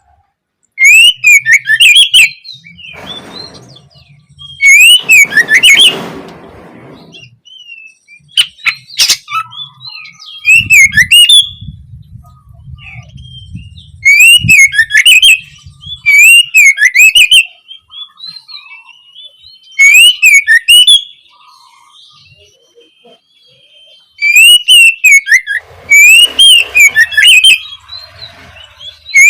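Oriental magpie-robin (kacer) singing: loud, repeated short phrases of whistled notes that sweep up and down, with fast high twittering above them, each burst lasting a second or two and separated by pauses of a few seconds.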